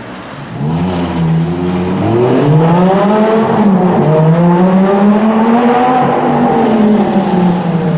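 A performance car's engine and exhaust under hard acceleration: the note swells twice early on, then climbs, dips briefly and climbs again before easing off near the end.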